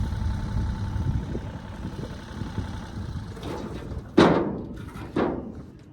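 A diesel engine idling and fading over the first few seconds, then two loud bangs about a second apart, the first the louder, each ringing briefly.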